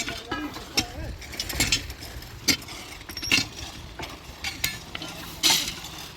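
Irregular sharp metallic clinks and knocks, roughly one a second, from hand tools striking rails and sleeper fittings during manual track work.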